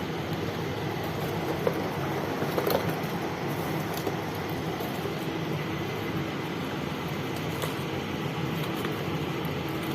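Steady whirring hum like a fan or air conditioner, with a few faint clicks about two to three seconds in.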